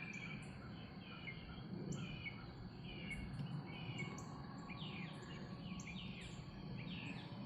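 Morning chorus of many songbirds: overlapping short chirps, rapid trills and quick falling notes from several birds at once, over a steady low background hum.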